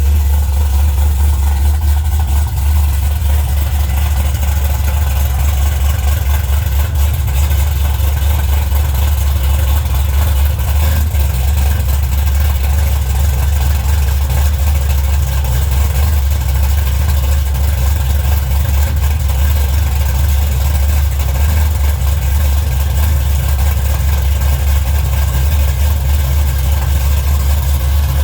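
Chevrolet Impala's engine idling steadily after a cold start, a loud, even, low rumble from the exhaust.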